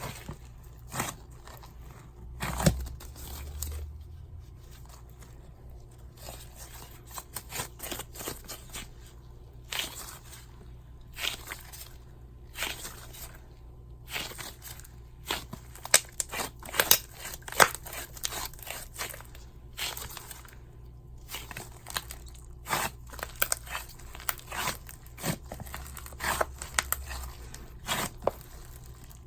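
Hands kneading and stretching slime, giving a steady run of irregular sticky clicks and small air-bubble pops.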